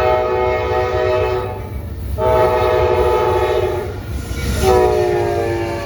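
Amtrak locomotive's air horn sounding three long blasts, a chord of several notes. The last blast dips slightly in pitch. The low rumble of the passing train runs underneath.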